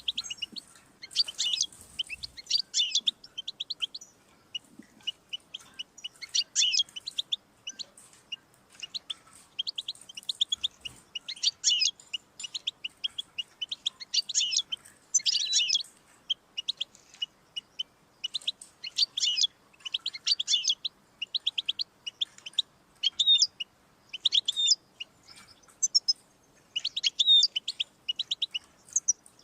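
European goldfinch singing: fast, twittering phrases of rapid high notes, one after another with brief pauses between them.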